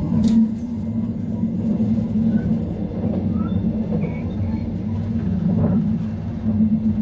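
Metre-gauge electric train running along the track, heard from inside a carriage: a steady rumble with a brief sharp click just after the start.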